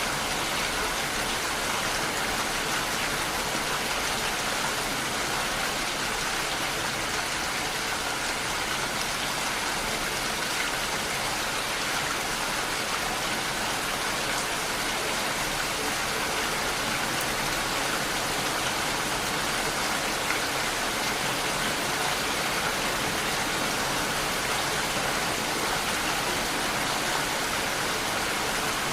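Steady rain falling, an even hiss of many drops with no separate events.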